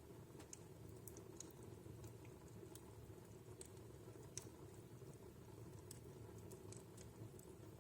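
Wood fire burning in a fireplace, crackling faintly: scattered small snaps and pops, a couple each second, over a low steady rumble of flame.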